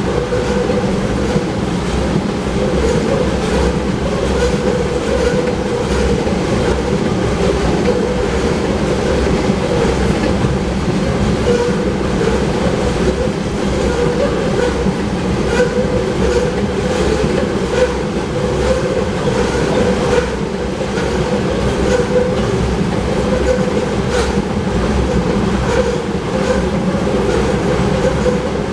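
Loaded oil tank cars rolling past at a steady speed: a continuous steel-on-rail rumble with the wheels clacking irregularly over the track.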